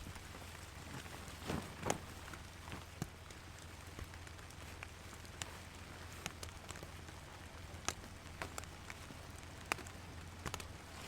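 Steady rain falling, with scattered sharp taps of drops striking close by. A couple of louder soft thuds come about two seconds in.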